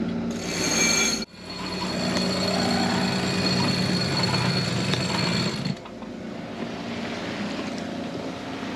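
Electric sail-furling winch running under load as a sail is unrolled, a steady motor whine with a rattle; it stops briefly about a second in, runs again, and stops about six seconds in, leaving wind and water noise.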